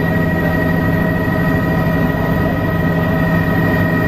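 Helicopter running, heard from inside the cabin: a loud, steady drone with a constant high whine over it.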